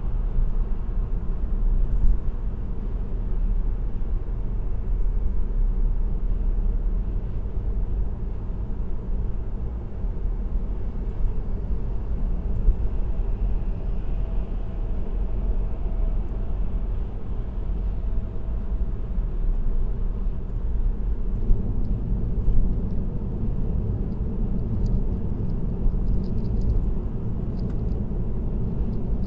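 Steady low rumble of tyre and road noise with engine drone from a car cruising on an expressway, heard from inside the car.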